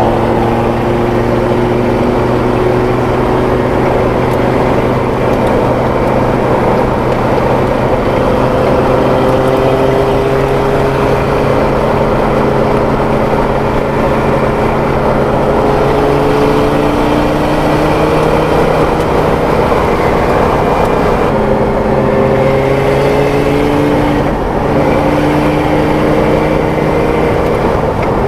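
Audi R8 V10 engine in a recreated Porsche 917, running hard under way. Its pitch climbs slowly, then drops at gear changes a few times in the second half.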